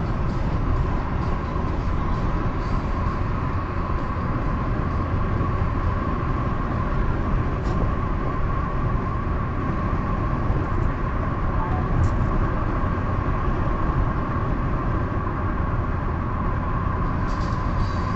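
A car driving steadily at highway speed: a constant low rumble of tyres on the road, with a steady hum held at one pitch.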